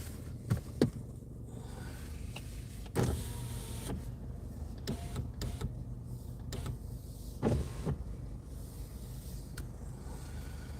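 A car's engine running steadily, with several short sharp clicks or knocks, the loudest about a second in and others at about three and seven and a half seconds.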